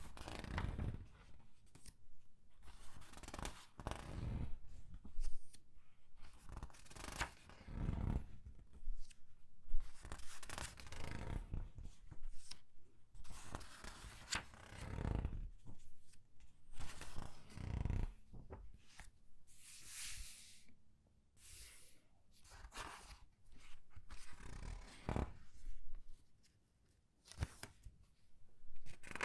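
Comic book pages being turned one after another and squeezed in the hand, a string of rustles and crinkles with soft low thuds of the paper being handled. A short lull comes near the end before the turning resumes.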